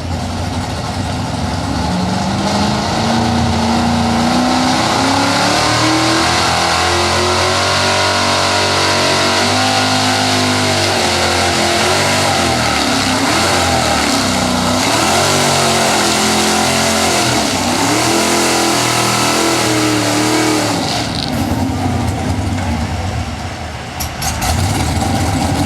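A 1978 Ford pulling truck's big-block V8 runs at full throttle, dragging a pulling sled down the track. Its pitch climbs steadily for the first several seconds, then wavers up and down under the load, and the engine lets off near the end of the run.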